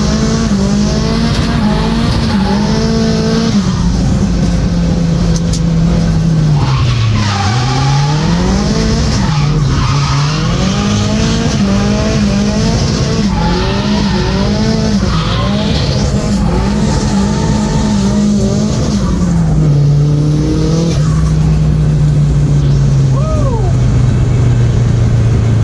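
Nissan Silvia S14's turbocharged SR20DET four-cylinder engine under hard drifting, its revs rising and falling again and again, with tyres squealing; near the end the engine note settles to a steadier, lower pitch.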